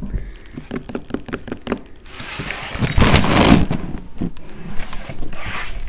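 Close-up handling noise: clicks, knocks and rustling as a chihuahua puppy paws and bites at the recording phone, with a loud rustle from about two to three and a half seconds in and a shorter one near the end.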